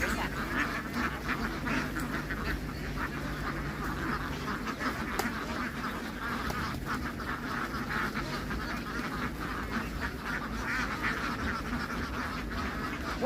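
A large flock of domestic ducks quacking continuously, many overlapping calls at once.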